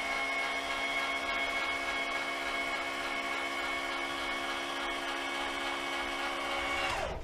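Electric motor of a scooter repair lift running steadily with a whine, raising the mobility scooter; about seven seconds in it winds down in pitch and stops as the lift reaches height.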